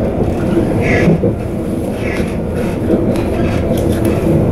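Stadler Flirt ER160 electric multiple unit heard from inside the passenger car while running at speed: a steady low rumble of wheels on rails.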